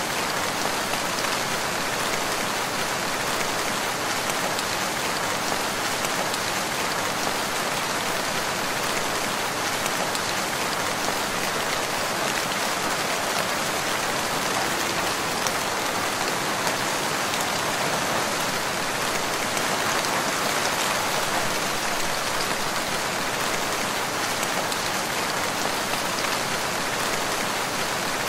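Steady rain falling in a forest, an even hiss of drops without pause or change.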